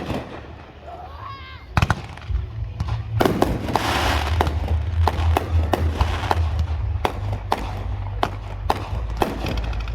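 Fireworks going off: a sharp bang at the start and a couple more about two seconds in. Then from about three seconds a rapid string of bangs, several a second, over crackling and a low rumble.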